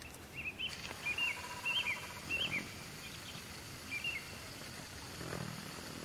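A songbird singing a series of short, slurred whistled phrases, about five of them over the first four seconds, against faint steady background hiss.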